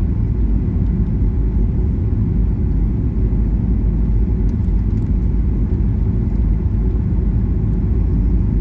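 Steady low rumble of an airliner heard from inside the passenger cabin.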